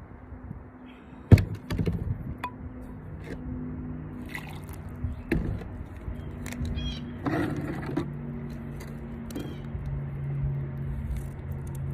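Objects being handled during seed planting: one sharp knock about a second in, then scattered light clicks and rustles over a steady low hum.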